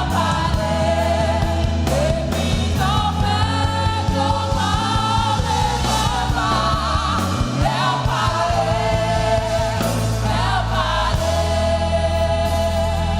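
Gospel worship music: a singer holds long, wavering notes over a praise team's backing vocals, with keyboard and steady bass.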